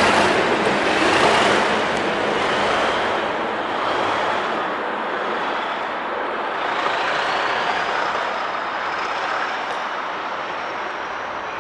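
A train moving away, its running and wheel noise fading steadily over several seconds, with a faint high tone slowly rising in pitch in the second half.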